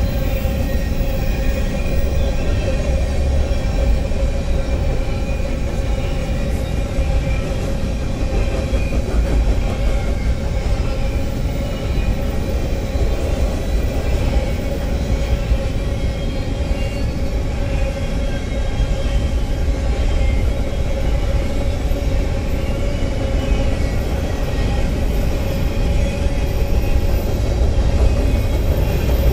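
BNSF freight train's covered hopper cars rolling past at a grade crossing, a continuous rumble of steel wheels on rail. A steady high tone runs through it the whole time.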